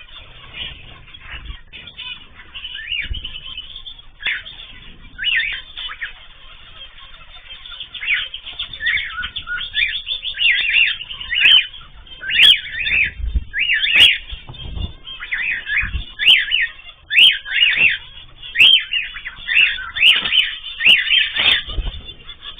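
Pet cage birds chirping and calling over one another in quick short notes, busier from about eight seconds in, with a number of sharp taps mixed in.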